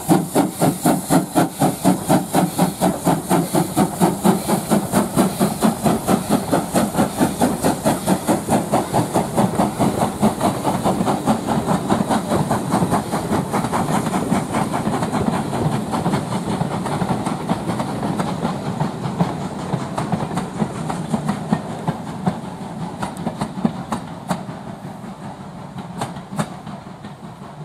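Steam locomotive working a train, its exhaust beats coming about three a second and fading steadily as it pulls away. A few sharp clicks of wheels over rail joints come near the end.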